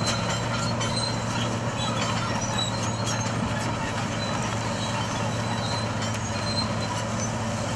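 Steady low mechanical hum of running machinery, with scattered light clicks and faint short high tones over it.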